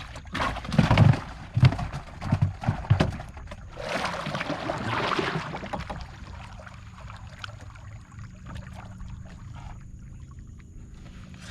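A run of sharp knocks and thuds against a small fishing boat during the first three seconds, then a splash of water about four seconds in, followed by quieter water movement.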